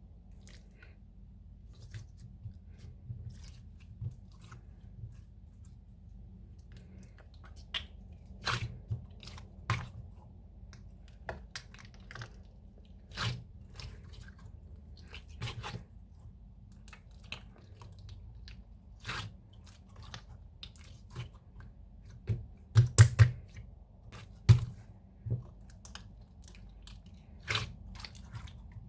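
Irregular close-up crunching and crackling clicks over a low steady hum, with a cluster of louder crunches about two-thirds of the way through.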